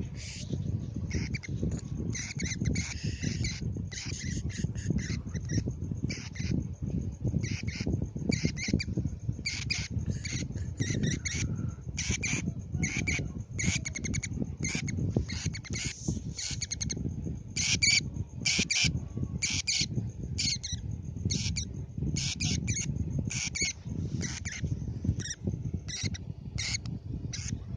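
Lovebird squawking: a long run of short, shrill squawks, more than one a second, over a steady low rumble.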